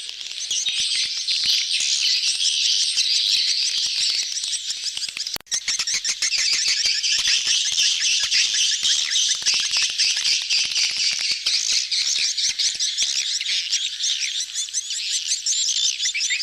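Dense, high twittering of a crowded swiftlet colony in breeding mood, many rapid chirps overlapping, as played to lure swiftlets into a nesting house. The sound cuts out for an instant about five seconds in.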